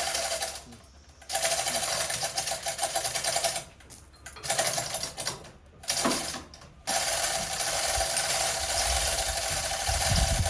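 A power tool running in repeated bursts of one to four seconds, a fast mechanical rattle with a hiss, stopping and starting again four times, as fasteners are worked during engine removal.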